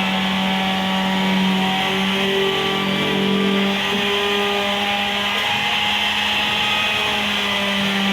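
Electric sander running steadily with a constant motor hum and a hiss from the abrasive, sanding down body filler.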